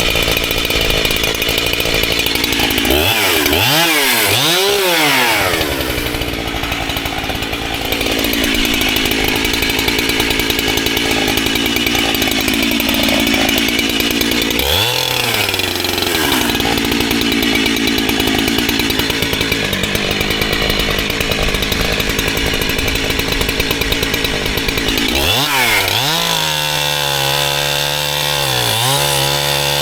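Gas chainsaw running at high revs through long cuts in firewood, its pitch dipping and recovering a few times. Near the end the revs drop lower and rise and fall unevenly.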